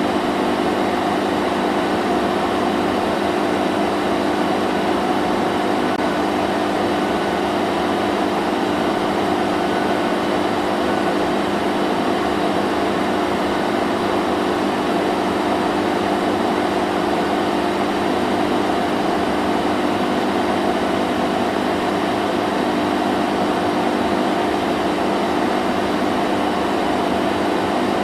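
Vacuum cleaner running steadily: a constant motor hum and rush of air that does not change.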